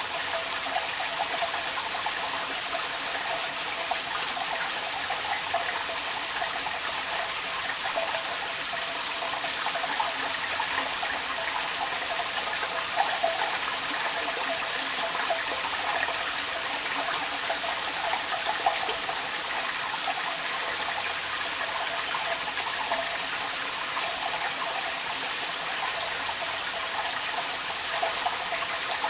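Rainwater running and splashing out of a downpipe, with rain falling around it: a steady, even rush of water with small splashes flickering through it.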